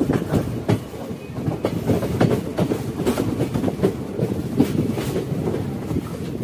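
Passenger train running at speed, its coach wheels clattering in irregular clicks over rail joints and points, over a steady running rumble.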